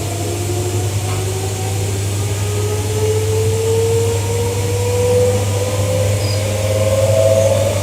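Electric multiple unit train's traction motors whining, the pitch rising steadily as the train accelerates, over a steady low hum.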